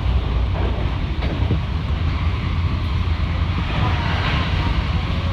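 Electric train running along the track, a steady low rumble with a few faint clicks from the rails.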